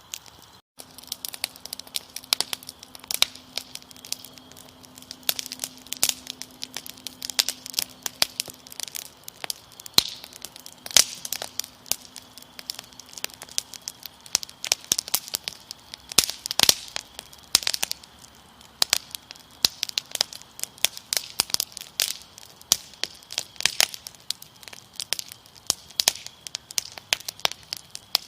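Wood fire crackling, with frequent irregular sharp pops and snaps, over a faint steady high cricket trill.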